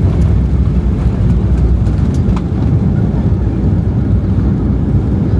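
Steady low rumble of a Boeing 737-800's engines and airflow heard from inside the passenger cabin, with a few faint clicks.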